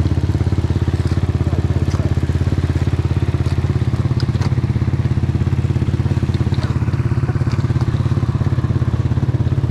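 Enduro dirt-bike engine running steadily, its pitch unchanging and not revving, with a few light clicks over it.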